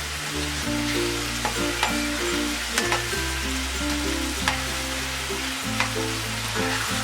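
Food sizzling as it fries in a pan, with a few sharp clinks from stirring against the pan scattered through. Background music with held notes and a bass line plays underneath.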